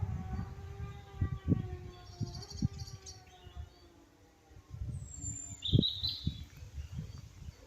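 Fading engine note of a racing superbike receding into the distance, its pitch slowly falling. Irregular low buffeting thumps are the loudest sound, and a bird chirps briefly about three and six seconds in.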